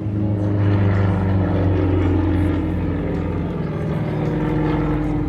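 Aerobatic propeller aircraft with a Vedeneyev M14P radial engine flying a display, its engine and propeller making a loud, steady drone with slight shifts in pitch.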